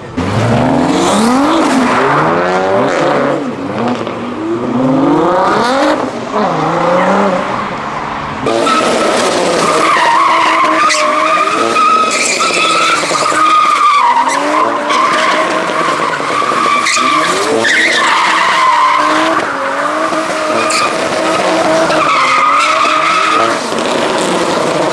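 A car's engine revving up and down, then from about a third of the way in its tyres squeal loudly and steadily with the engine held high, as the car drifts.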